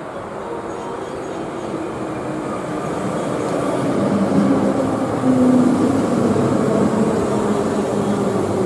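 An electric train running by, its rumbling noise building steadily louder, with a low hum over it.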